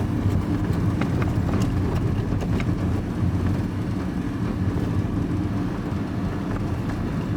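Vehicle engine and road noise heard from inside the cab while driving: a steady low rumble, with a few faint ticks in the first few seconds.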